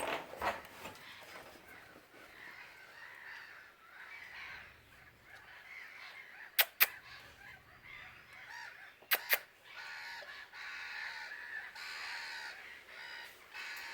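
A bird calling repeatedly, denser near the end, with two quick pairs of sharp clicks about halfway through.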